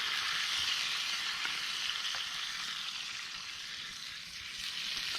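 Steak, burgers and mushrooms frying in bacon fat in a pan over a campfire: a steady sizzle, with a few faint crackles.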